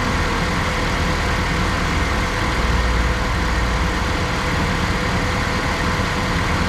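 The engine of a 2000 Mitsubishi 1.75-ton truck idling steadily.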